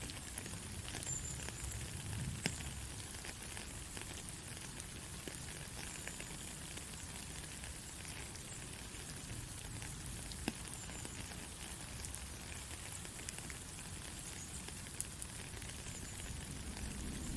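Steady heavy rain: a continuous hiss of rainfall with scattered individual drops landing as sharp ticks.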